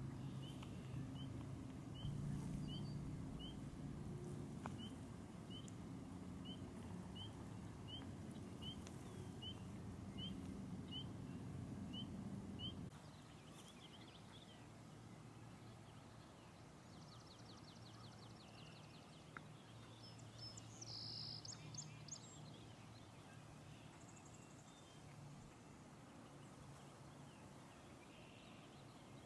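A bird calling over and over, short rising chirps about two a second, over a low steady rumble that cuts off about halfway through. After that come a rapid buzzy trill and a few higher calls from other birds.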